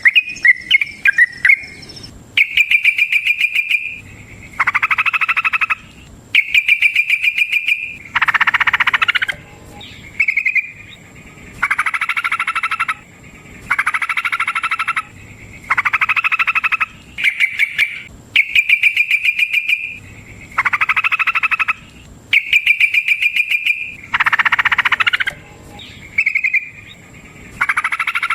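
Yellow-vented bulbul (trucukan) song: fast rolling, chattering trills in phrases of one to two seconds, repeated about every two seconds with short gaps.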